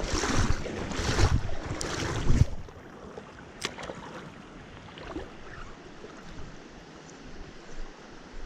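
A loud rushing noise with low thumps for about two and a half seconds, then the faint steady sound of stream water with a few light clicks.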